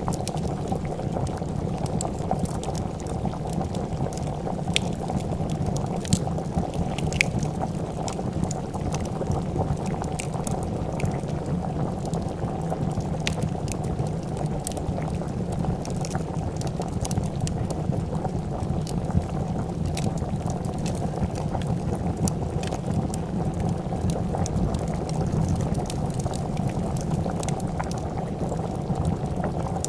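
A pot of soup bubbling at a steady boil, with scattered sharp crackles and pops from a fire.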